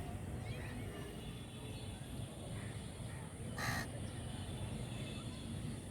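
A flock of crows cawing, mostly faint, with one loud harsh caw about three and a half seconds in, over a steady low rumble.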